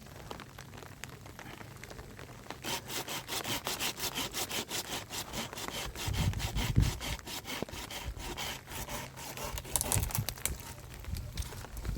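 Hand saw cutting wood in quick, even back-and-forth strokes, starting a couple of seconds in, with a few low thuds around the middle.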